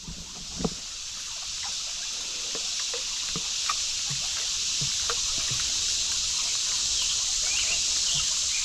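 Creek water running steadily, with scattered small splashes and knocks, the sharpest about half a second in.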